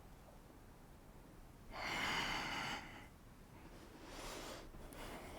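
A person breathing audibly in time with a repeated yoga movement, faint: one long breath about two seconds in, then a fainter one near the end.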